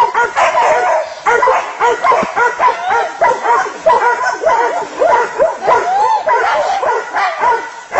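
Dogs barking and yelping rapidly, the calls overlapping without a pause, as they fight a pig.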